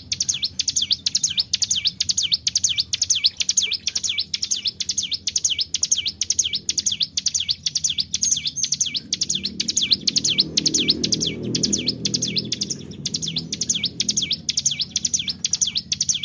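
Ciblek gunung (a prinia) singing a long unbroken rolling series of sharp high notes, about three a second, without a pause. A faint low rumble sits underneath for a few seconds past the middle.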